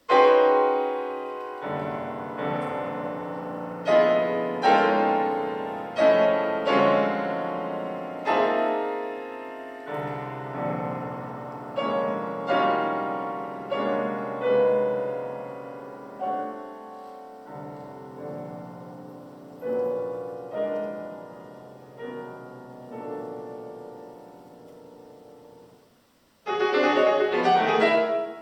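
Solo piano: loud chords struck one after another, each left to ring and die away, becoming softer and sparser, then a sudden loud flurry of rapid notes near the end.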